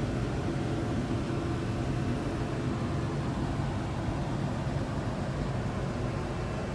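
A 1470 hillside combine running steadily while harvesting wheat, its engine and threshing machinery giving an even, unchanging hum.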